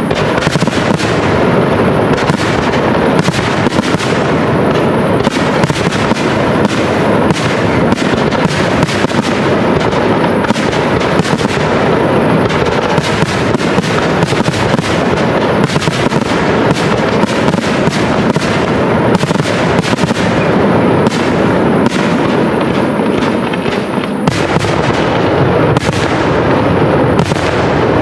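Professional fireworks display: aerial shells bursting one after another in a dense, continuous barrage of bangs with no pause.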